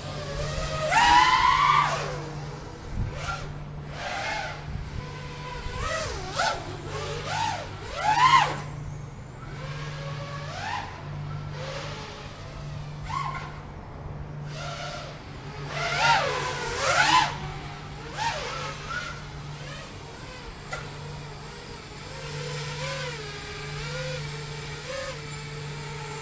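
FPV quadcopter's brushless motors whining, the pitch sweeping up and down rapidly with repeated throttle bursts. The loudest bursts come about a second in, around eight seconds in, and again around sixteen to seventeen seconds in, with a steadier, gently wavering whine near the end.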